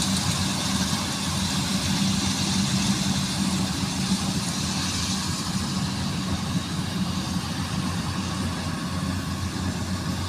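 Rice combine harvester engine running steadily, with a constant low hum and a hiss from the machine that eases off about halfway through.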